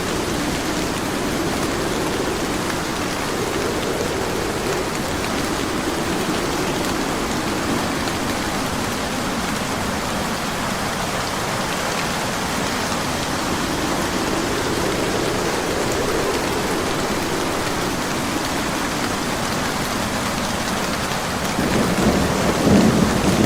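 Steady rain hissing, with thunder rumbling low in the background and swelling a couple of times. Near the end a louder roll of thunder builds.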